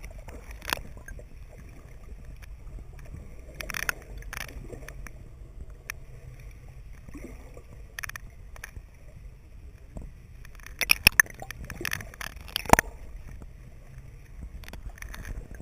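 Muffled sound picked up by a GoPro in an underwater housing: a steady low rumble of water and boat, with scattered sharp knocks and clicks, several in quick succession near the end.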